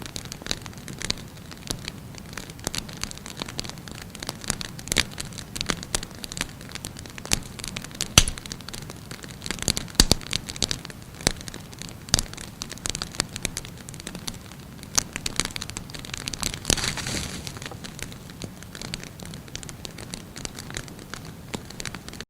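Burning wood fire crackling: irregular sharp pops and snaps over a soft steady hiss. A few louder pops come about eight and ten seconds in, and there is a short rush of hissing around seventeen seconds.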